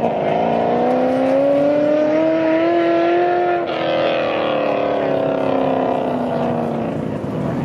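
Race car engine under hard acceleration, its note rising steadily. About three and a half seconds in there is a quick gear change: the pitch drops, then the note sinks slowly.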